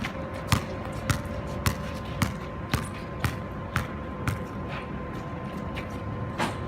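A basketball being dribbled on a court, about two bounces a second for roughly four seconds, then stopping, with one more bounce near the end.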